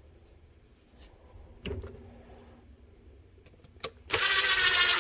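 A small electric motor whirs loudly and steadily for about a second and a half near the end. A single knock comes about a second and a half in.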